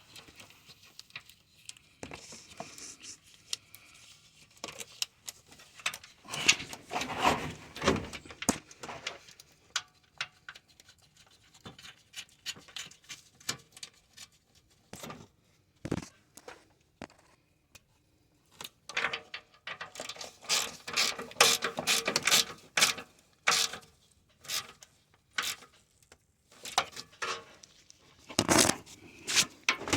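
Hand ratchet wrench clicking in several quick bursts as the bolts holding the radiator are tightened, with scattered single clicks and knocks between.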